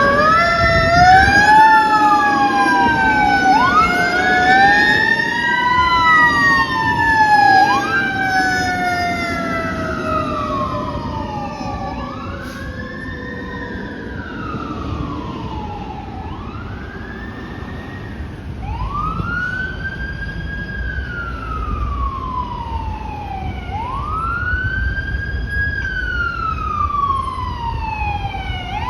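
Fire truck sirens wailing. For the first ten seconds or so two sirens overlap, then one carries on alone, rising quickly and falling slowly about every four seconds over the low rumble of the truck. It fades somewhat in the middle and grows louder again later.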